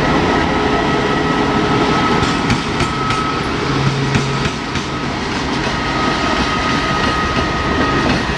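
Train passing close by, its wheels clicking over rail joints above a steady rolling rumble, with a thin steady whine.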